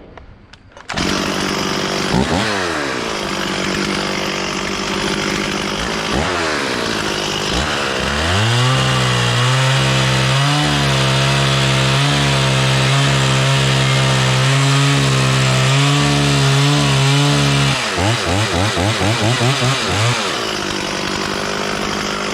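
Stihl 440 two-stroke chainsaw firing up about a second in and idling, with a couple of brief revs. It then runs at high speed for about ten seconds. Near the end it is blipped rapidly about half a dozen times before dropping back to idle.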